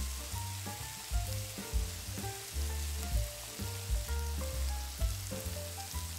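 Shrimp sizzling in a nonstick frying pan, a steady hiss of frying. It plays over background music with a bass line and a melody of short stepped notes.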